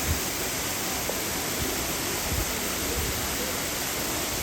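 Steady rush of falling water from a waterfall, with a few soft low thumps.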